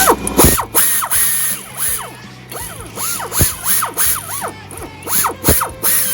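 Hand-tool work dismantling a Jeep 4.0 idler pulley: a ratchet clicking, with repeated short squeaks that rise and fall in pitch, several a second.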